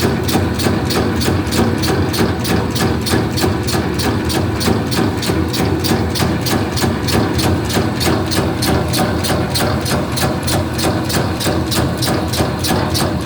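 Meatball-forming machine running steadily: a motor hum under a rapid, even clacking of several strokes a second as it turns out meatballs.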